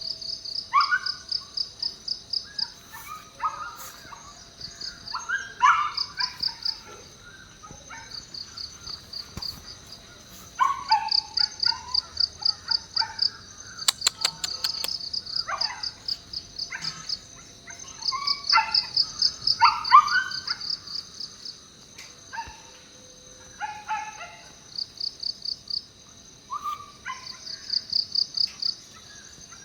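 Insects chirping in rapid pulsed trains, several pulses a second, again and again throughout. Under them, short rising animal calls repeat.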